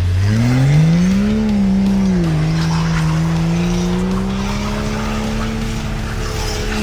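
Truck engine revving hard and holding high revs as its tires spin in the snow. The revs climb quickly, dip briefly after about two seconds, then stay high and creep upward.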